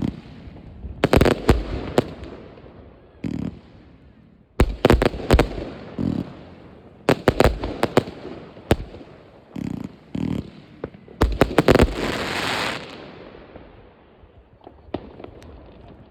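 Fireworks going off: clusters of sharp bangs and cracks with echoing rumbles, heaviest in bursts about a second, five seconds, seven seconds and eleven seconds in, thinning to scattered distant cracks near the end.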